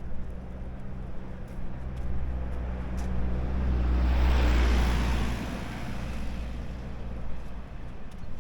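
A motor vehicle passes on the street: its noise builds, peaks about four and a half seconds in, then fades, over a steady low engine hum.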